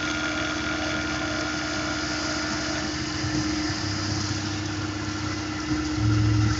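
Tormach PCNC 1100 CNC mill running steadily while milling an aluminium part, a steady machine whine over fine cutting noise. A lower hum comes in about four seconds in.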